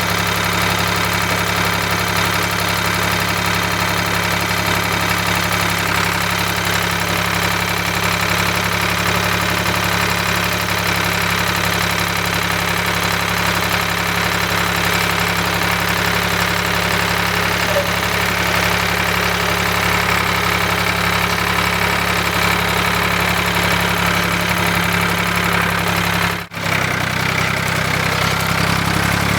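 Ford 3000 tractor engine running steadily at a low, even speed, with a brief break near the end after which its pitch shifts slightly.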